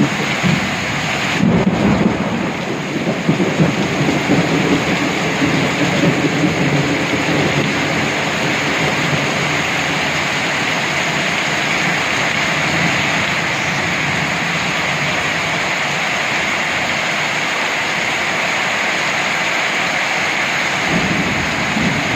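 Heavy rain pouring down in a thunderstorm, with thunder rumbling through the first several seconds before settling into a steady hiss of rain.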